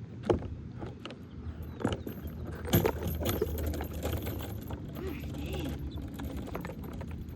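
Swing-set chains clinking and rattling as two swings move at once, with a few sharp knocks over a steady low rumble.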